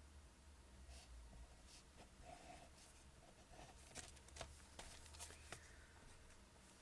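Pen writing on paper, heard faintly: a run of short scratching strokes and light taps, a few sharper ones bunched together about two-thirds of the way through.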